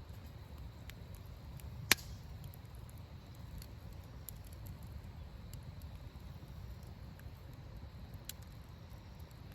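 Wood fire crackling in a fire pit: scattered small pops with one sharp, loud pop about two seconds in, over a low steady rumble.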